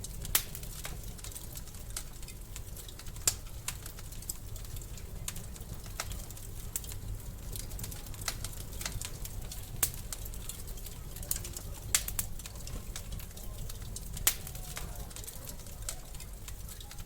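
Wood fire crackling in a fireplace: irregular sharp pops and snaps, a handful much louder than the rest, over a steady low rumble.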